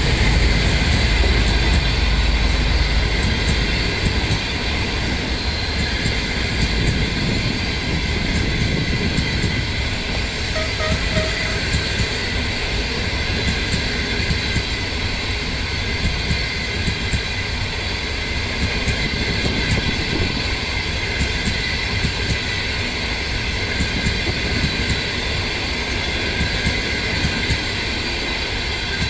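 Passenger train passing close by: the diesel locomotive's low rumble fades over the first few seconds, then the coaches roll past with a steady rumble and the clickety-clack of wheels over rail joints, easing a little near the end.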